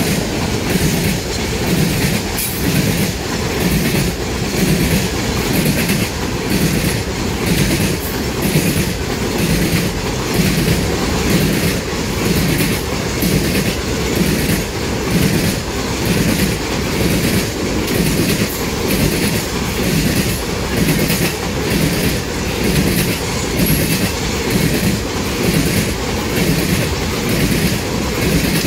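Loaded coal hopper cars of a freight train rolling past, their wheels clicking over the rail joints in a steady rhythm of about one and a half beats a second.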